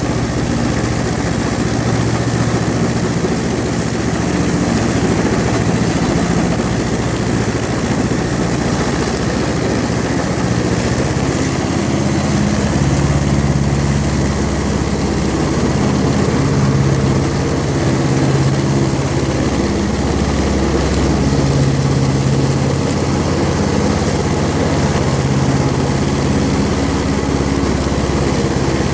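Tractor engine running steadily, picking up a little speed about eleven seconds in.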